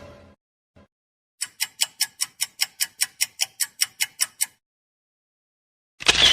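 A clock-style ticking sound effect: about sixteen crisp, evenly spaced ticks at roughly five a second for about three seconds. A short dense burst of another sound comes near the end.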